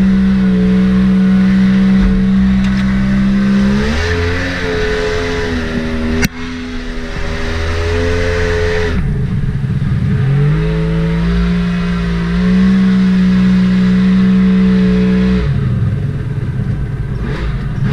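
Mini jet boat's Yamaha 1100 engine running under throttle at steady high revs, easing off about four seconds in and falling away near six seconds with a sharp click. It revs back up from about ten seconds, holds steady again, then drops off near the end.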